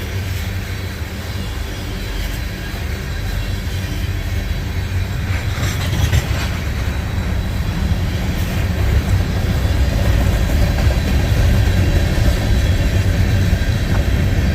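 Canadian Pacific freight train rolling by, a steady low rumble that slowly grows louder.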